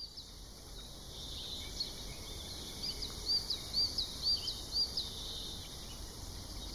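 A small bird singing a series of short, high, repeated chirps, about two a second, over a steady low background rumble.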